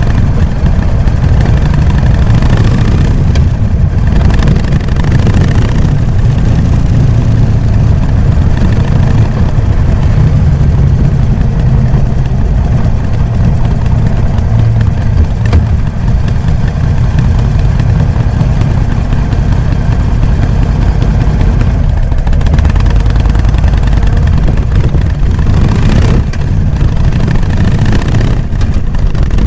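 Harley-Davidson Sportster XL883N Iron's air-cooled V-twin running through its stock exhaust as the bike is ridden: a steady, deep rumble with small rises and falls in revs.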